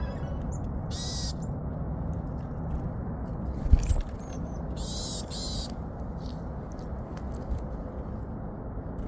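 Two short, high bird calls, about a second in and again near five seconds, over a steady low background rush, with a single knock a little before four seconds.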